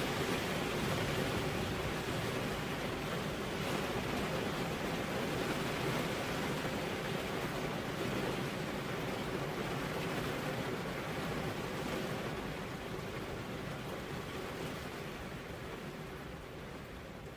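Steady rain, an even hiss, that fades out gradually over the last five seconds or so.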